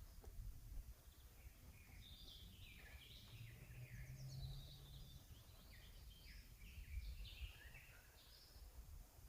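Faint songbird song in a forest: a run of short, quick chirping phrases that starts about two seconds in and keeps going, over a low rumble.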